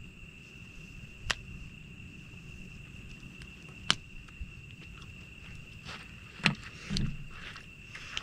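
Campfire wood crackling, with three sharp pops (about a second in, near four seconds, and the loudest after six seconds), over a steady high-pitched insect trill.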